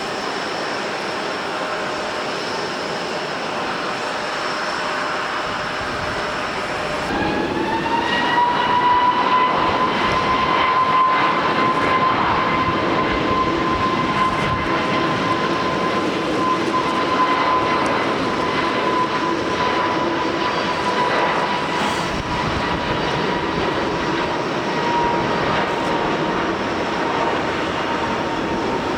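Jet airliner engine noise in rain and wind. About seven seconds in, an Airbus A321neo's turbofans spool up for takeoff: a whine rises and then settles into a steady high fan tone over a loud rushing roar.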